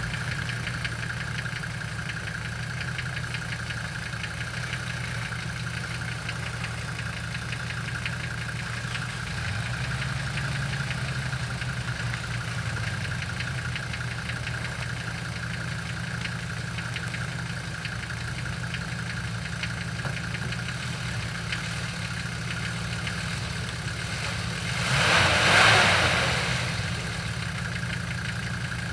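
Off-road vehicle engine running at a steady idle. A brief rushing noise swells and fades about 25 seconds in.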